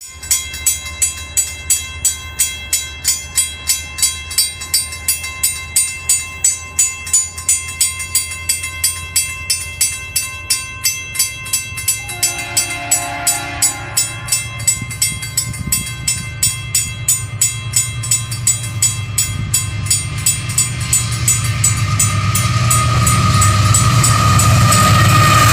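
Rail vehicle's wheels clicking over rail joints in a steady rhythm, a little over two clicks a second, that slowly speeds up as the sound grows louder. A short tone sounds about halfway through.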